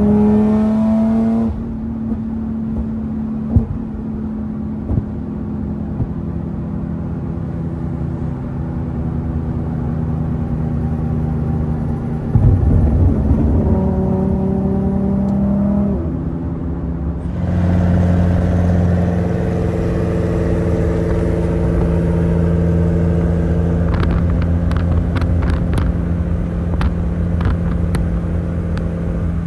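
Infiniti G37's 3.7-litre V6 through a loud exhaust, revving up and lifting off twice, then holding a steady deep drone. In the last few seconds a run of sharp exhaust crackles sounds over the drone.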